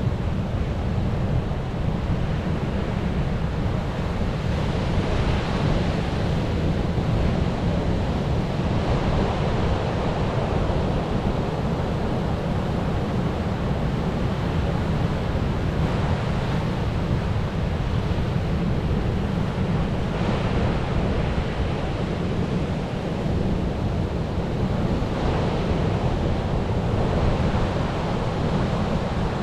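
Sea surf: waves breaking and washing in, swelling every few seconds over a constant low rumble.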